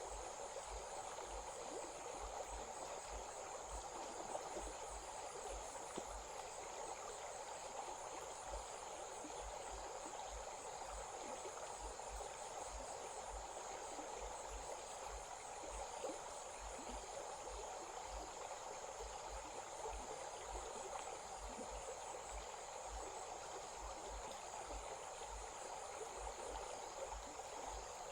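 Stream water running steadily, with insects trilling continuously in a high band above it.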